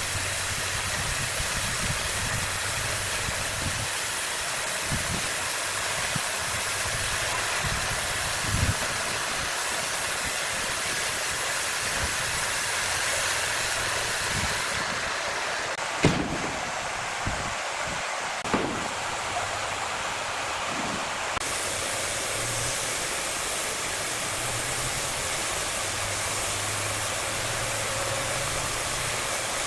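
Large sawmill saw machinery running steadily, a continuous noisy hiss over a low hum, with a few sharp knocks, the loudest about halfway through.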